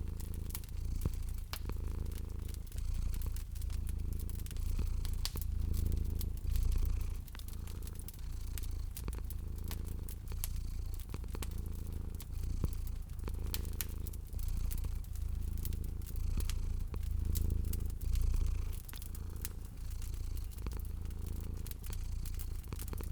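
Domestic cat purring steadily, the purr swelling and easing with each breath, over a wood fire crackling with scattered small pops.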